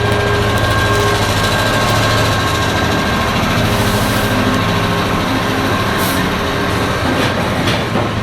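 Train running close by, a loud steady engine drone with a low hum and a few steady whining tones that fade near the end.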